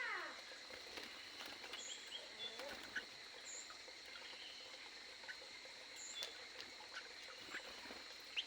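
Aviary birds giving short, high chirps every second or two over a steady high-pitched tone, with scattered faint clicks.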